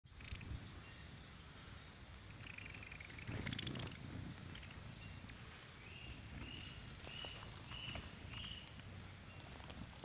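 A bird calling in a tropical garden: five short arched whistled notes, about two a second, past the middle. Under it runs a low rumbling noise, with a brief loud rustle about three and a half seconds in.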